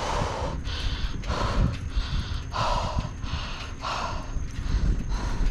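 A cyclist breathing hard from exertion, with heavy breaths coming roughly once a second. Wind rumbles steadily on the microphone.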